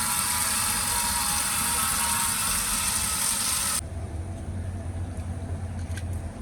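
A loud, steady hiss that cuts off suddenly about four seconds in, leaving a quieter low hum with a few faint ticks.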